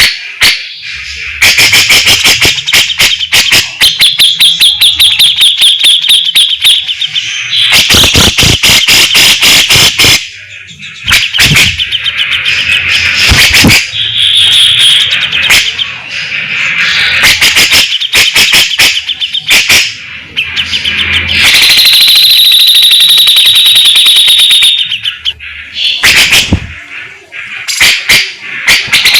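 Grey-cheeked bulbul (cucak jenggot) singing loudly in fast, rapid-fire phrases of harsh, raspy chattering trills ('besetan'). A long unbroken rasping trill comes about two-thirds of the way through.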